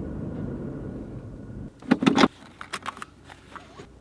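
A Toyota Tacoma's engine runs with a steady low hum and cuts off a little under halfway through. Then come two loud knocks and a scatter of light clicks and jingles.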